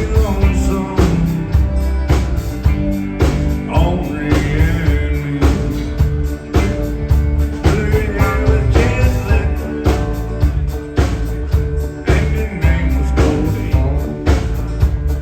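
Country rock band playing, with drums keeping a steady beat under bass and guitar.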